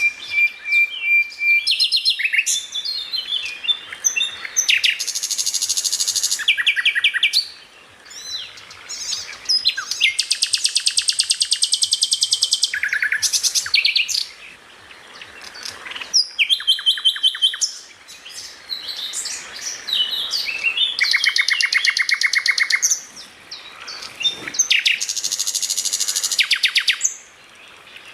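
Songbird singing a loud, varied song in phrases of one to three seconds: rapid trills of fast repeated notes and clear whistled chirps, set off by short pauses. It is the kind of tutor song played to train caged songbirds.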